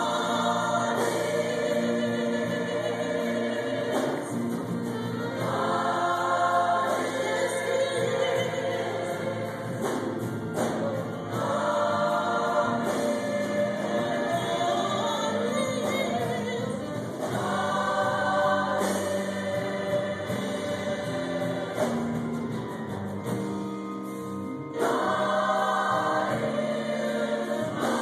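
Choir singing a gospel song in long sustained phrases.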